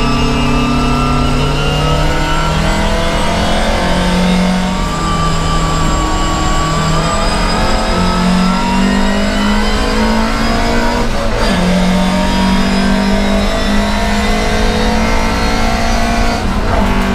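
Volvo 544 Sport's four-cylinder racing engine at high revs, heard from inside the stripped cabin. Its pitch climbs and drops back several times as the gears change.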